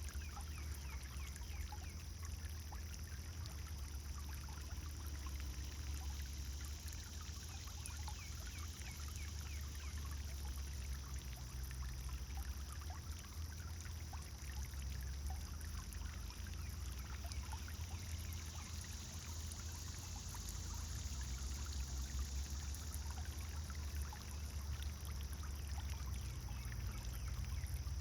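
Pond fountain splashing and trickling steadily into the water, with birds chirping.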